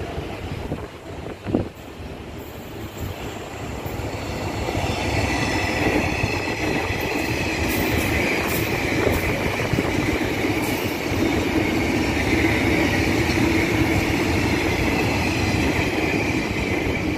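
Train passing on the line, its running noise building over the first five seconds and then holding steady, with a high steady whine over the rumble. A single sharp thump about a second and a half in.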